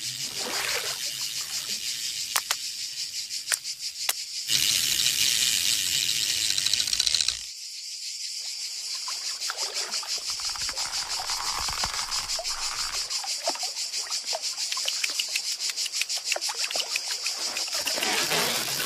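Insect chirring like crickets, a steady, fast-pulsing high-pitched trill, with a few sharp clicks in the first seconds and a louder hiss lasting about three seconds near the start.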